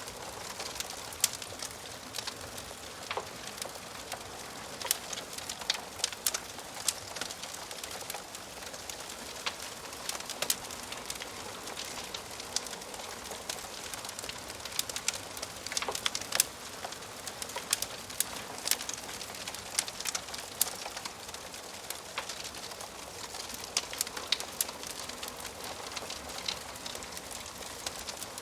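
Wood fire crackling in a fireplace: a steady hiss with frequent, irregular sharp pops and snaps from the burning logs.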